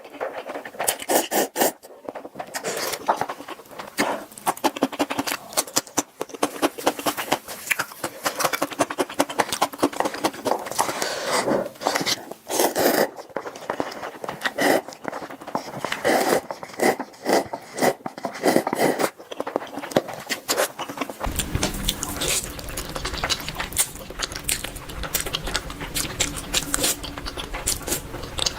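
Close-miked ASMR eating sounds: a dense run of quick wet mouth clicks from chewing and slurping food. A steady low hum comes in under it about three-quarters of the way through.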